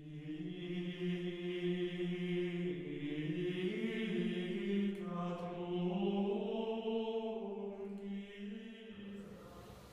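Slow sung chant on long held notes whose pitch steps gently up and down; it stops about nine seconds in.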